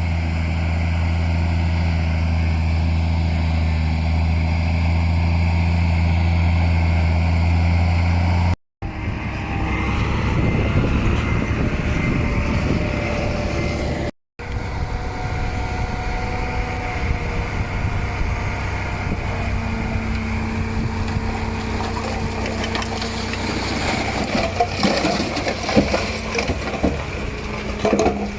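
Heavy diesel earthmoving machinery running: first a steady, deep engine note, then after two abrupt cuts a different engine working, with irregular rattling and knocks toward the end.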